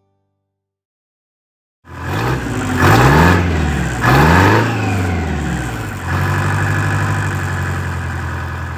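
John Deere 420's two-cylinder engine running, starting suddenly about two seconds in: it is revved up and back down twice, then settles into a steady run.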